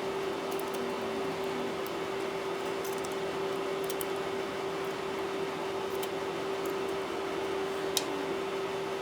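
A few faint, light clicks from small tools and tablet parts being handled, with a sharper click about eight seconds in, over a steady low hum and hiss.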